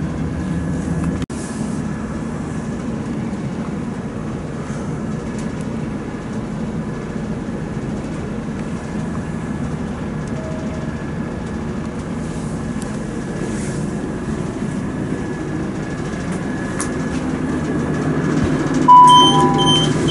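Steady rumble of a diesel multiple unit heard inside the passenger saloon while the train stands at the station. Near the end, loud electronic beeps from the door controls as the door Open button lights up.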